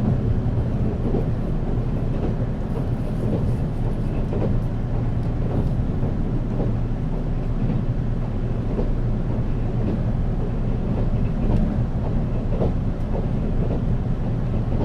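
Steady running noise inside the passenger cabin of a JR 485-series electric motor car (MoHa 485) travelling at speed: a constant low rumble of wheels on rail and traction motors, with a few faint clicks scattered through it.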